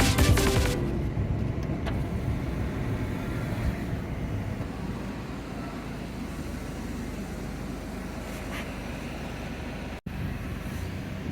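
Steady road and engine rumble of a car driving, heard from inside the car, with a brief break about ten seconds in.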